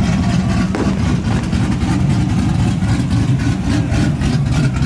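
Truck engine running loud and steady, with a low exhaust rumble.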